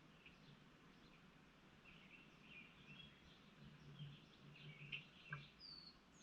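Faint chirps and calls from several small birds in quick succession, with a high downward-sliding whistle near the end, over a low steady hum.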